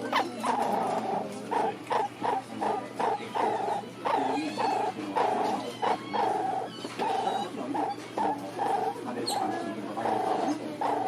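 An animal calling in short repeated pitched sounds, about three a second, without a break.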